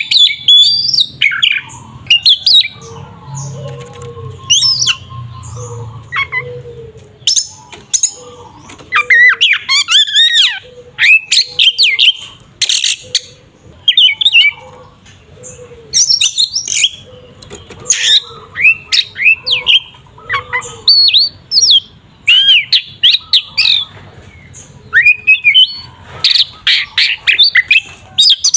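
Oriental magpie-robin singing loudly in aggressive fighting mode. Rapid bursts of sharp rising and falling whistles mix with harsh chattering notes, with short gaps between phrases.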